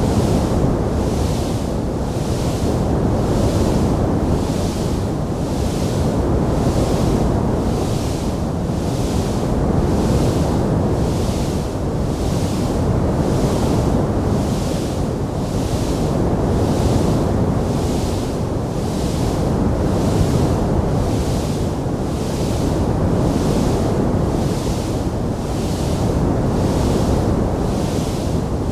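Wood fire burning with a steady, dense low rush. Above it sits a faint hiss that pulses evenly about once a second, with no distinct crackles.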